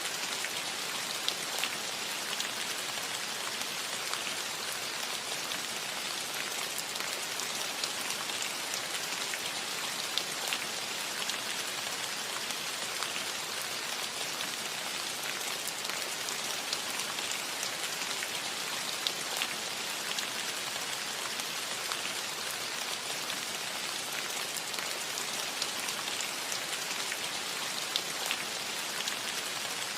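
Steady rain falling on a metal roof: an even hiss with many small scattered drop taps.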